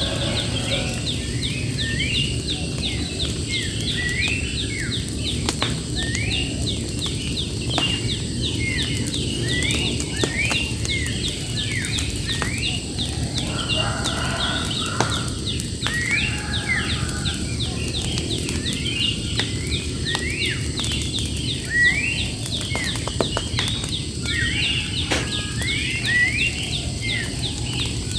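Birds calling over and over in quick, short notes that sweep upward, with a steady low rumble, a faint high-pitched steady whine and a few sharp clicks beneath.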